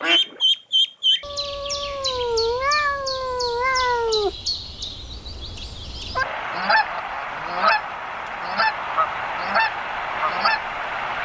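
A run of farm-bird calls: ducks quacking rapidly in the first second, then small birds chirping quickly over a long wavering call, then honking calls about once a second over a steady background noise.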